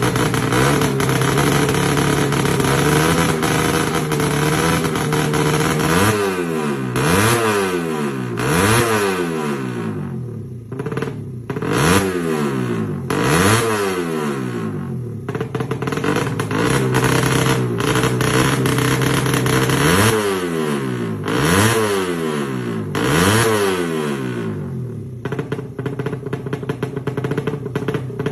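Suzuki Satria FU's 147 cc DOHC single-cylinder four-stroke engine being revved hard, first held at high revs, then blipped again and again. Each blip climbs sharply and falls back.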